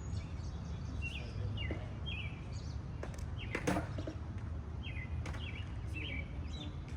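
Birds chirping in short repeated calls over a steady low rumble, with a sharp click about halfway through.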